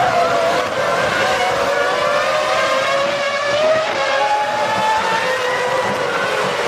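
Several Formula One cars' V10 engines running at high revs together, with more than one engine note at once and pitches rising and falling through gear changes.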